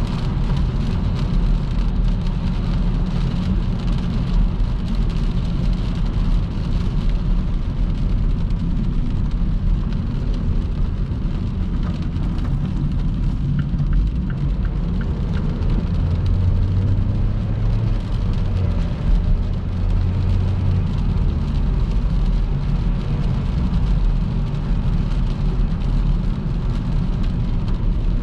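Car driving at motorway speed in heavy rain: steady tyre and road noise on the wet surface, mixed with the hiss of rain. A deeper hum joins for a few seconds past the middle.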